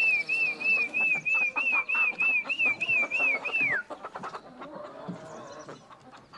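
A bird calling a quick run of about a dozen clear whistled notes, each rising and falling, about three a second, ending in one falling slur about four seconds in. Faint short clicks and knocks sound beneath it.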